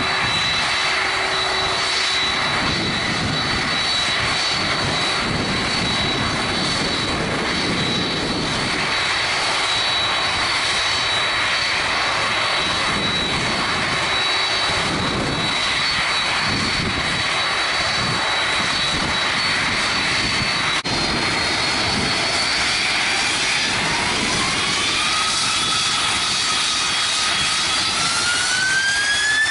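Boeing 767-300 jet engines running with a steady high whine over a broad rush. About three-quarters of the way through, a whine rises steadily in pitch as the engines spool up for the takeoff run.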